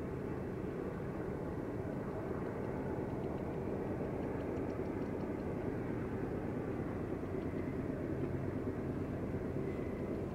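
Diesel locomotives of a BNSF freight train working in the distance, a steady low rumble with no sudden changes.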